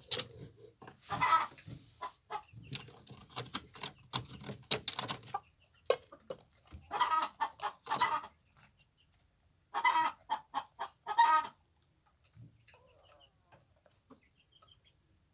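Chickens clucking in runs of quick repeated clucks, going quieter near the end.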